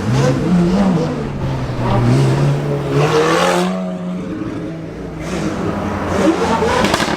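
Car engine revving, its pitch climbing to a peak about three and a half seconds in and then falling away, with sharp crackling pops near the end.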